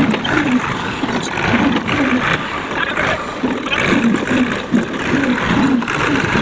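Tractor engine running steadily, with a rough, uneven low note.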